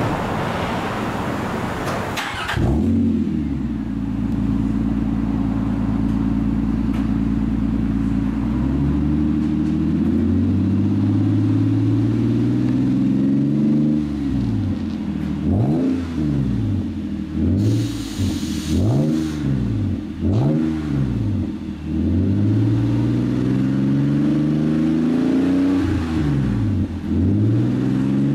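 Nissan E51 Elgrand exhaust, built with a stock front pipe, a straight-through center pipe and a silenced rear section, heard at the tailpipes. After a noisy first couple of seconds the engine settles into a steady idle. From about nine seconds in it revs up. It then gives a series of quick throttle blips, holds a raised rev, and blips again near the end.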